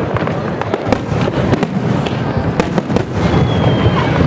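Aerial fireworks bursting in rapid, irregular succession, sharp bangs and crackles over a continuous rumble, with a brief high whistle about three seconds in.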